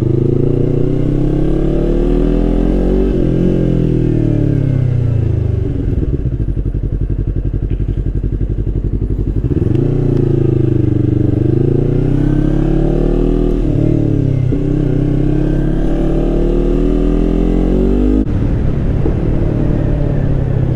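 Yamaha R3 parallel-twin engine through an Akrapovič GP slip-on exhaust, revving up and down repeatedly, its pitch rising and falling several times with sudden changes about two-thirds of the way in and near the end.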